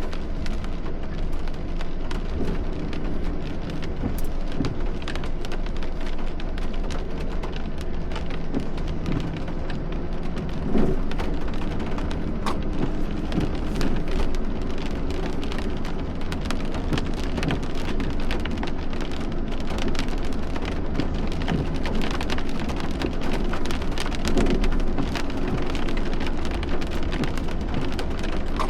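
Heavy rain falling hard, a dense steady spray of sharp drop hits on a surface over a constant low rumble.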